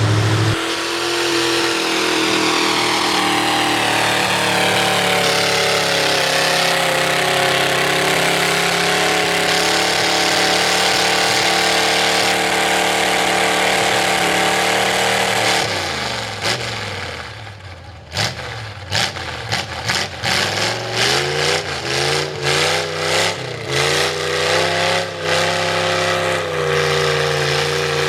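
V8 mud truck engine on open upright headers, held at steady high revs for a long stretch. It then falls off, and from about eighteen seconds in it is revved in quick repeated throttle blips with sharp cracks, before settling into steady running near the end.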